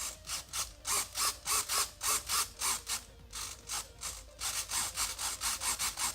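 Quick, even scraping strokes from a hand tool working the airframe, about four a second, with a short pause about halfway through.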